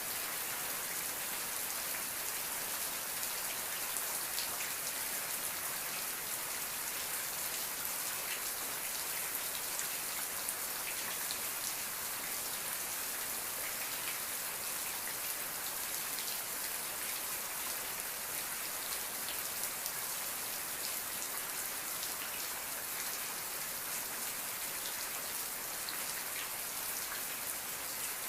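Steady rainfall, a continuous hiss of drops with fine scattered patter on a surface.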